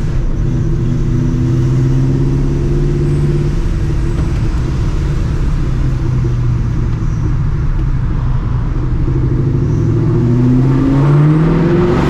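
Vortech-supercharged 4.6-litre two-valve V8 of a New Edge Mustang GT, breathing through long-tube headers, a catless X-pipe and a Borla ATAK cat-back, drones steadily at cruise over road noise. About ten seconds in, the engine note rises as the car accelerates.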